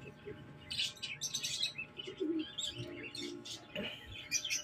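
Small birds chirping, many short high chirps repeating throughout.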